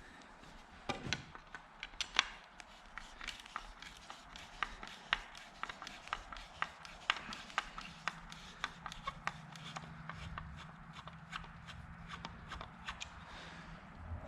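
Irregular small clicks and knocks, like footsteps and hands handling things, with a faint steady low hum joining about halfway through.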